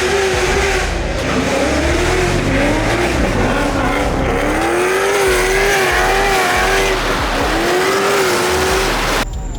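A car drifting: its engine is held at high revs, rising and falling over and over, while the tyres squeal and hiss against the pavement. The sound breaks off abruptly near the end.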